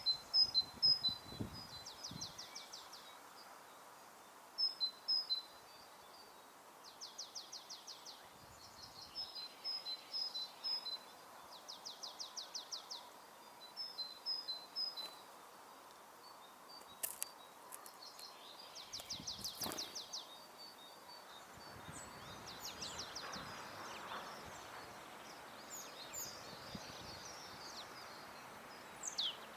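Small songbirds calling outdoors: repeated short high chirps, broken about every five seconds by a quick rattling trill about a second long. A few soft thumps and sharp clicks come in between.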